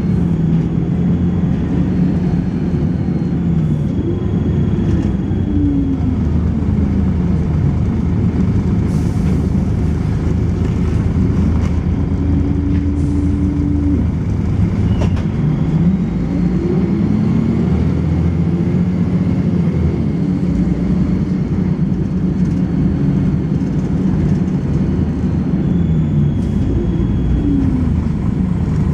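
Volvo B10BLE bus's diesel engine and ZF automatic gearbox under way, the engine note rising and falling again and again through the gears. A faint thin high-pitched tone comes and goes over it: the bus's strange high-pitched noise.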